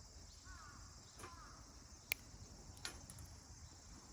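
Insects chirring steadily, with a few sharp isolated clicks and snaps, the loudest about two seconds in, from firewood and kindling being handled. Two faint short chirps sound in the first second and a half.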